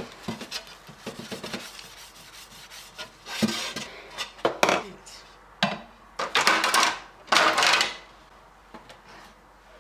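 Handling a glass fridge shelf and its plastic parts at a sink: a sharp knock at the start, then several short rubbing or hissing bursts in the middle, typical of cleaning strokes or sprays.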